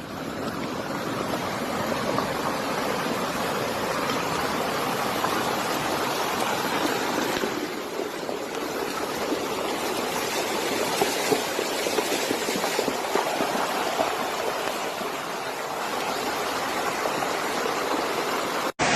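Fast-flowing floodwater rushing, a steady, even noise, which cuts out for an instant near the end.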